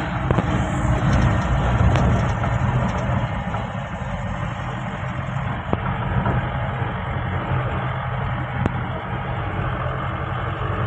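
Mahindra Bolero's diesel engine running steadily at a constant pitch, with road and body noise mixed in from the off-road track.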